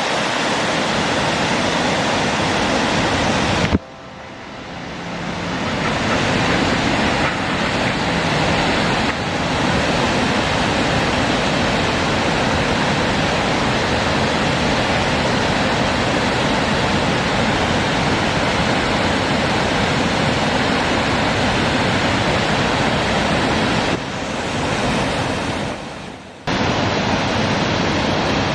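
Reekie Linn waterfall on the River Isla: the steady rush of falling water, cut off and starting again about four seconds in and once more near the end.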